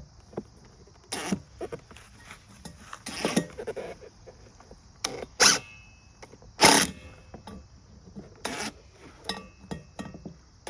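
Irregular metal clanks, knocks and scrapes from hand work on a pit bike's exhaust muffler, its rivets drilled out so it can be pulled apart. The loudest knocks come about five and a half and seven seconds in.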